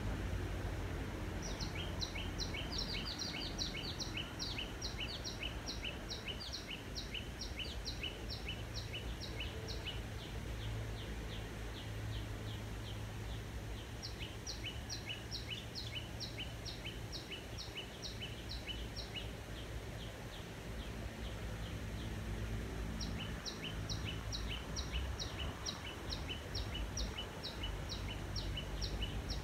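Birdsong: long runs of quick, high, downward-sweeping chirps, several a second, coming in three bouts, over a steady low rumble.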